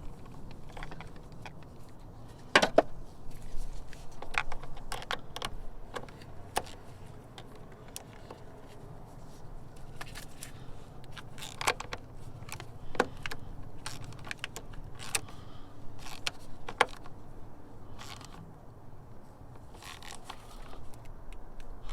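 Scattered metallic clinks, taps and scrapes of hand tools and a battery terminal clamp being worked onto a car battery post, with one loud clink about a third of the way in.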